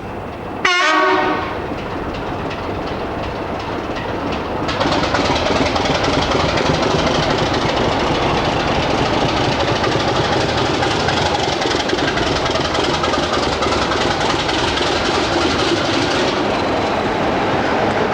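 A diesel locomotive sounds its horn in one short blast about a second in, then the train runs past, growing louder about five seconds in and staying loud.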